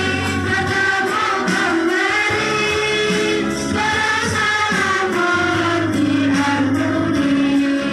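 Children's choir singing a song in unison over held low accompaniment notes.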